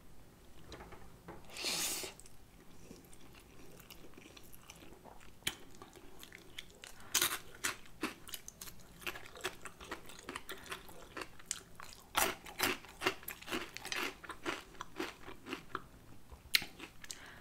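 Close-miked eating of spicy ramen noodles mixed with Flaming Hot Cheetos: a short noisy slurp about two seconds in, then wet chewing with crunching clicks, busiest around seven seconds and again from twelve to fourteen seconds.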